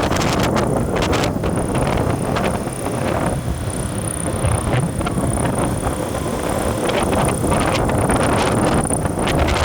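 Wind buffeting the microphone over a steady road and engine rumble from a moving vehicle, with a thin steady high whine.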